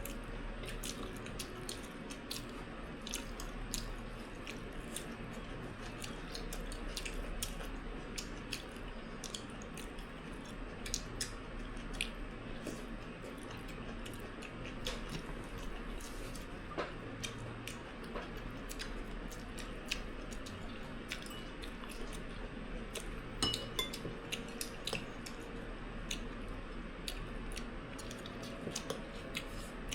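Eating at a table: scattered small clicks and taps of utensils against bowls and plates, with chewing, over a steady low hum.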